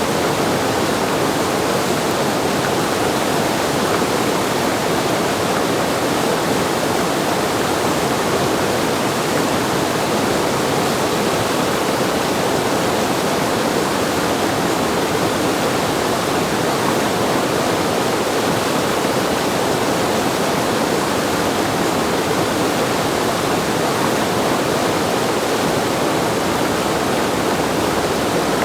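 Whitewater rushing steadily over a river standing wave at high flow, a loud, unbroken roar of water.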